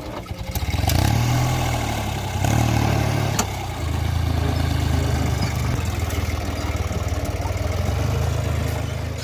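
Sonalika GardenTrac DI-20 mini tractor's diesel engine running steadily, picking up briefly about a second in and again around two and a half seconds in.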